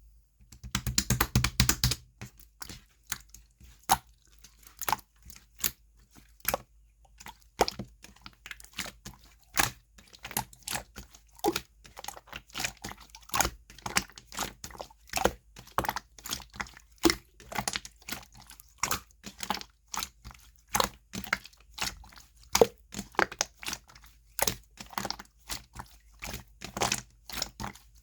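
Slime being pressed and folded by hand, giving sharp clicking pops about twice a second, with a dense run of crackles in the first two seconds.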